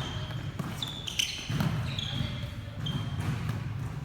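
Volleyball play on an indoor court: several short, high sneaker squeaks on the floor and a few thuds of the ball, over the hall's low background rumble.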